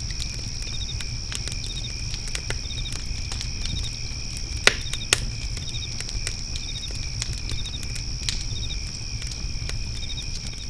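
Fire pit crackling with scattered snaps and two louder pops near the middle, over a low rumble of the flames. Crickets trill steadily behind it, with short chirps repeating about once a second.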